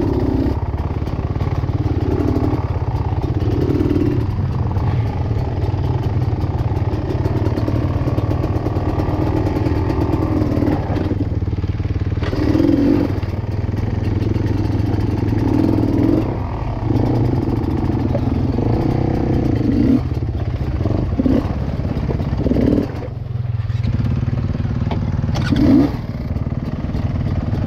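Dirt bike engine running on a rough off-road trail, the throttle opening and closing over and over, with brief easings-off about eleven and twenty-three seconds in.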